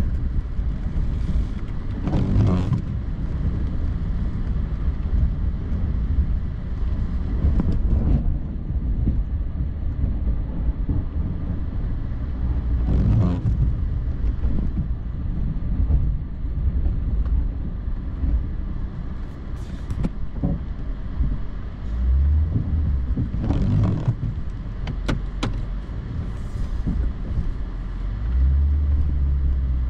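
Plow vehicle's engine running with a steady low rumble while plowing snow, with a few brief louder noises over it.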